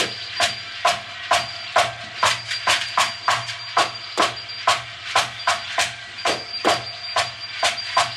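Improvised electronic music: a quick clicking percussive pattern, about three or four hits a second and not quite even, over two held tones, one high and one lower.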